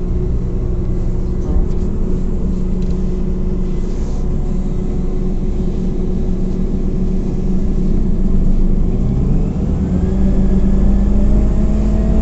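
Scania OmniCity CNG city bus heard from inside the cabin: its gas engine runs steadily, then rises in pitch and gets louder as the bus accelerates, starting about nine and a half seconds in.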